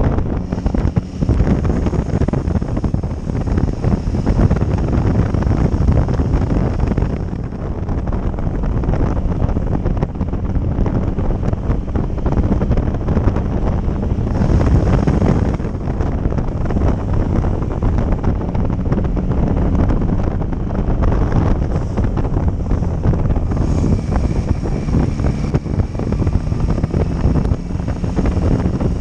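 Wind buffeting the microphone of a riding motorcycle, with the bike's engine running steadily underneath.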